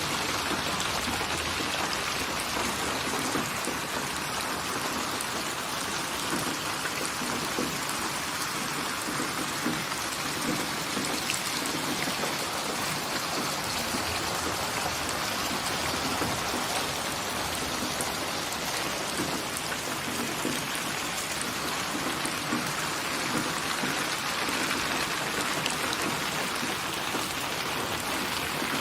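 Steady rainfall, an even hiss of many drops pattering on a surface, unchanging throughout.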